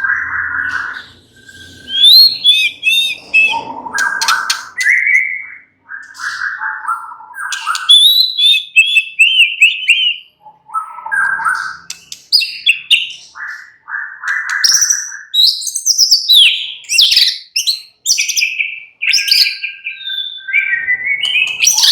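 White-rumped shama (murai batu) singing: a varied run of whistled phrases, quick warbles and harsher buzzy notes, one phrase after another with brief pauses between.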